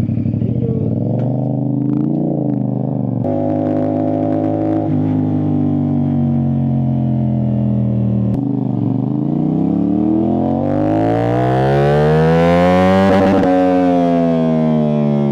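CFMoto 450SR-S parallel-twin engine through an Austin Racing aftermarket exhaust, pulling through the gears. The pitch drops sharply at upshifts about three and eight seconds in. It then climbs steadily in revs for about four seconds to its loudest, and eases off as the throttle rolls back.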